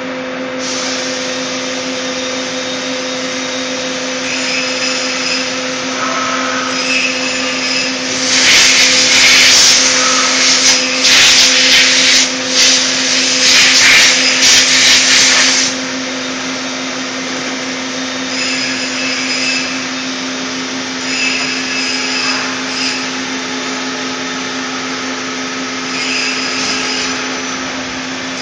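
Puma 350 CNC lathe running with a steady, even hum, joined for about seven seconds near the middle by a loud, fluctuating hiss that then stops, with a few short high-pitched chirps on and off.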